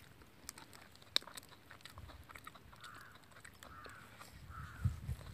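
A person chewing a mouthful of fried chicken liver, with many small wet, crunchy clicks. Three short calls sound in the background about three seconds in, and a dull thump near the end is the loudest sound.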